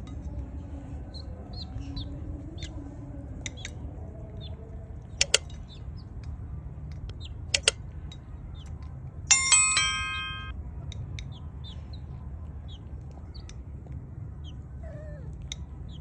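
Scattered short high bird chirps over a low steady rumble, with two quick pairs of sharp clicks, and a bright bell-like chime ringing for about a second about nine seconds in.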